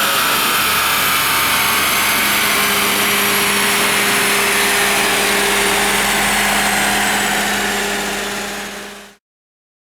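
Chevrolet C6 Corvette's LS2 V8, fitted with Kooks longtube headers and a Corsa exhaust, running loudly at a steady speed, with a high whine slowly falling in pitch. The sound fades and cuts off about nine seconds in.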